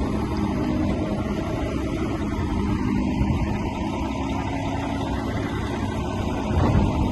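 Heavy diesel engine of earthmoving machinery running steadily with a low rumble, swelling a little near the end.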